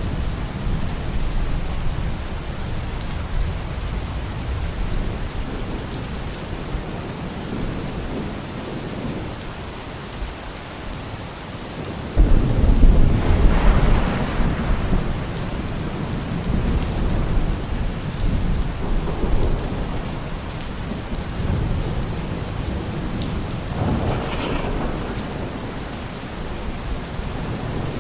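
Steady rain falling during a thunderstorm, with thunder rumbling low beneath it. About halfway through, a sudden loud clap of thunder breaks in and rolls on for a few seconds before fading back into the rain.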